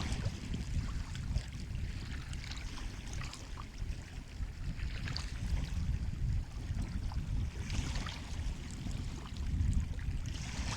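Sea waves washing on a shore: a steady low rumble of surf with splashing, hissing swells every few seconds.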